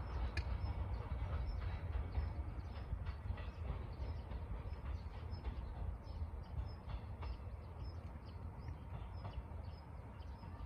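A train running on the rails: a steady low rumble with light clicking, slowly fading.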